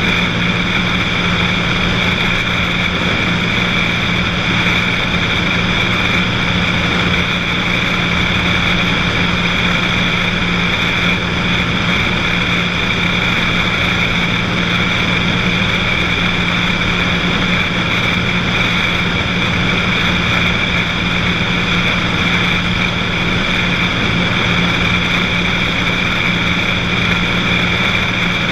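Cessna 182's six-cylinder piston engine and propeller running steadily in flight, an even, unchanging drone.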